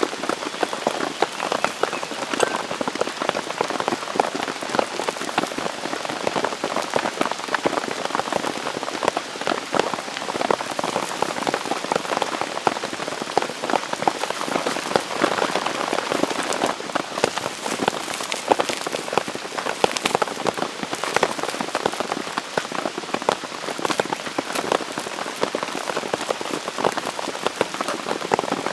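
Steady rain falling, a dense run of small drop hits on a surface without let-up.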